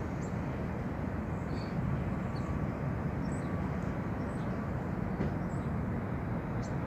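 Steady low outdoor rumble of traffic, with a few faint, short high chirps over it.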